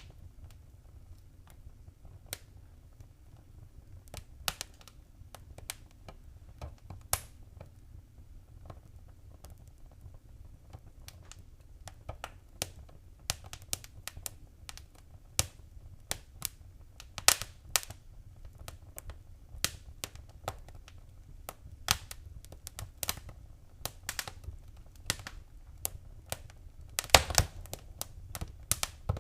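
Wood fire in a fireplace crackling, with irregular sharp pops and snaps over a steady low rumble. The pops are sparse at first, come thicker after about twelve seconds, and the loudest cluster comes near the end.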